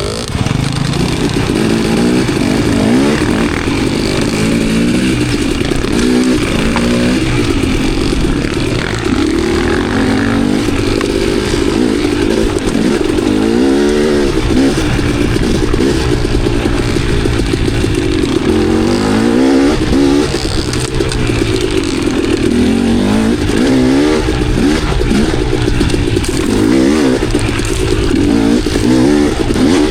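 Dirt bike engine riding single-track trail, its pitch rising and falling over and over as the throttle is opened and rolled off, with clatter from the bike over rough ground.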